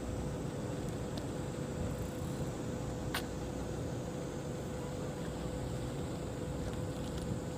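Twin diesel engines of a small coast guard patrol boat running steadily at low speed, a constant low rumble with a steady hum over it. A single sharp click sounds about three seconds in.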